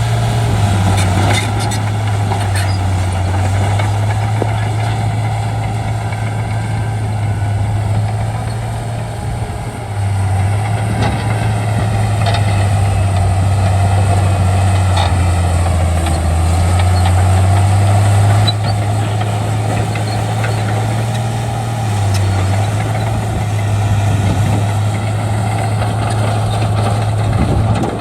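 Shantui D95 crawler bulldozer's diesel engine running under working load. Its low hum dips in pitch twice, about ten seconds in and again about twenty-two seconds in, then picks up again.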